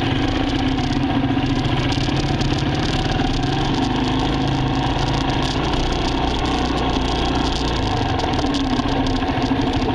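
Dirt bike engine running steadily, its pitch drifting slightly up and down.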